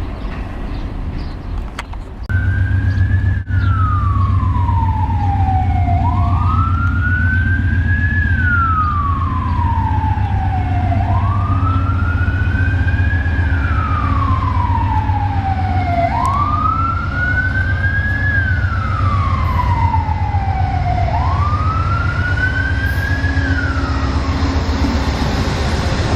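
Emergency vehicle siren in a slow wail, its pitch rising quickly then falling slowly, about every five seconds, starting about two seconds in over a steady low rumble.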